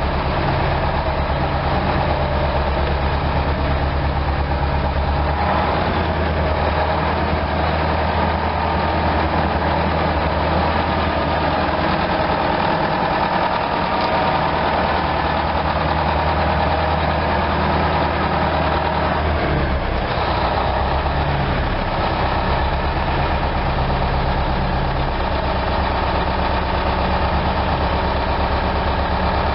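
Tractor engine running steadily at low revs, its note shifting slightly a few times.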